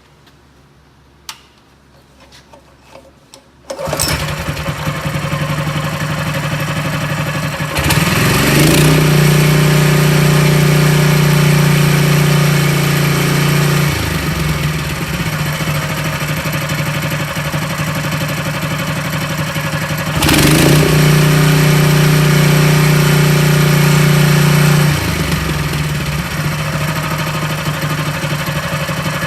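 Honda GX160 single-cylinder four-stroke engine starting up about four seconds in after a few faint clicks, then idling; it is revved up twice for several seconds each time and drops back to idle between.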